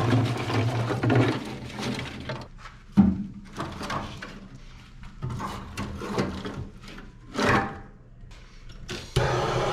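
Firewood being loaded into a wood fireplace: irregular knocks and clatter of logs against each other and the firebox, with one sharp knock about three seconds in. Near the end a steady, even rushing noise starts.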